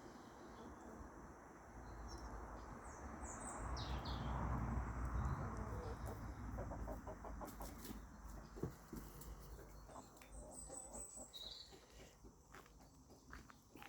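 Short, high bird chirps scattered throughout, with chickens clucking softly around the middle. A low rush of noise swells and fades a few seconds in.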